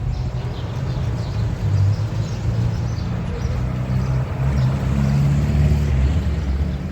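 Car engine running as the car drives, a steady low hum that rises slightly in pitch about four seconds in.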